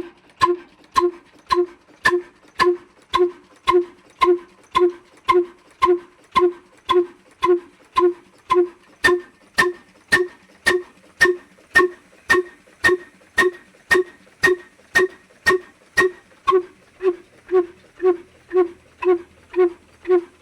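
Old desi diesel engine running slowly and steadily, its exhaust beating evenly about twice a second. Each beat is a sharp click with a short ringing note.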